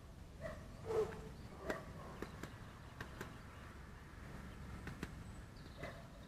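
Irregular sharp taps, a few seconds apart or in quick pairs, typical of a great spotted woodpecker pecking at wood. Short low calls sound now and then in the background.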